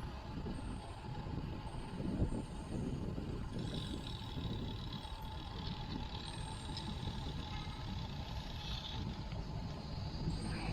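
Wind rumbling over a chest-mounted action camera's microphone while riding a road bike, with steady road noise underneath.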